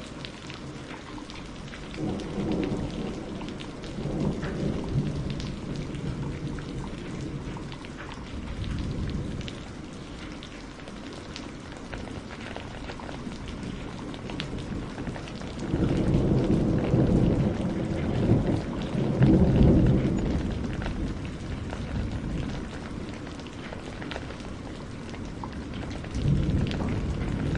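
Steady rain falling, with rolls of thunder rumbling low: one about two seconds in, a longer, louder one from about sixteen to twenty-one seconds, and another near the end.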